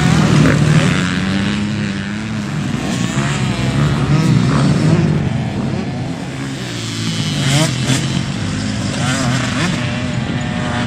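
Motocross bike engines running on the track, their pitch rising and falling as the riders accelerate and back off, with several bikes overlapping.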